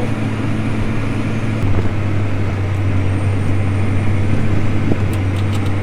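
Tractor engine running steadily under load while pulling a tillage digger through the field, heard from inside the cab as a steady low drone.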